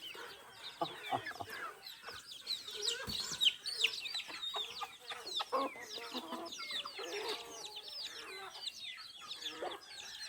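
Chickens clucking, with many short, high calls that fall in pitch, packed thickly over one another.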